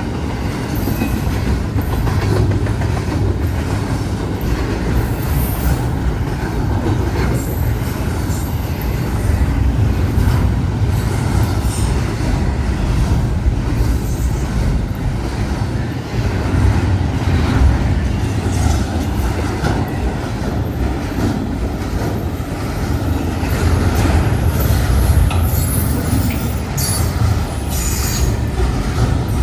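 Freight train rolling past at close range: a steady heavy rumble of cars and wheels on the rails, with clacking and high-pitched wheel squeals coming and going, most often near the end.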